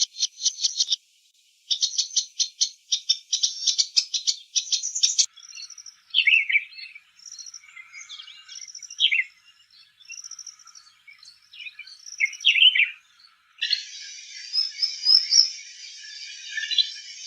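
Red-whiskered bulbul song: short, clear whistled notes and downslurred phrases in the middle of the stretch. Before it come short runs of a rapid pulsing rasp, and near the end the song gives way to a steady hiss with faint chirps.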